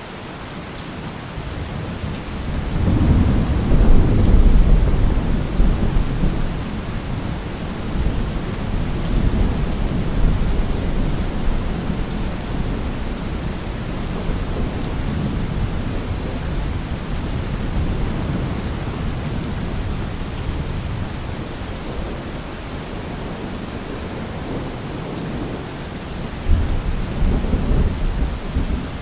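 Steady heavy rain with rolling thunder: a loud, deep rumble builds about three seconds in and slowly dies away over several seconds, and another rumble begins near the end.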